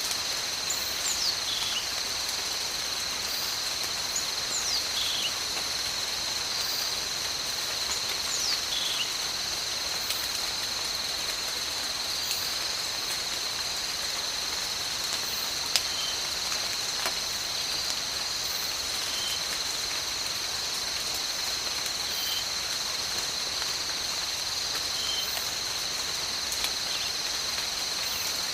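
Tropical rain falling as a steady hiss under a continuous high insect drone. A few short falling whistled calls come in the first ten seconds, then brief calls every few seconds.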